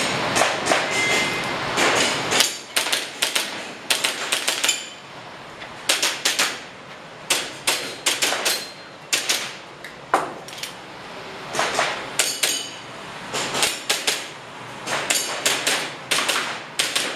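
Airsoft pistol shots: sharp clicks fired mostly in quick pairs and short strings.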